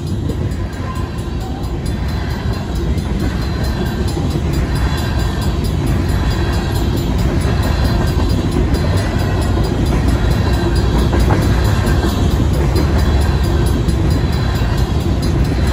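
Freight train's covered hopper cars rolling past: a steady heavy rumble of steel wheels on the rails, growing slightly louder.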